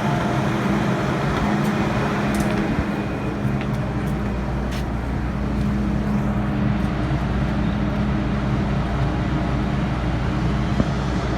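MTR Island Line M-Train standing with its doors open, heard from inside the car: a steady drone of the train's ventilation and auxiliary equipment, with a low, even hum.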